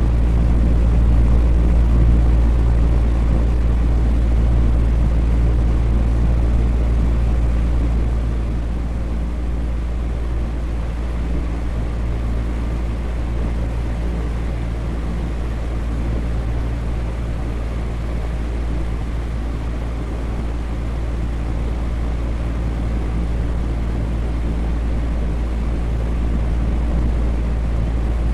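Electric fan running steadily: a low hum with a few steady low tones under an even rush of air. It eases slightly about eight seconds in and comes back up near the end.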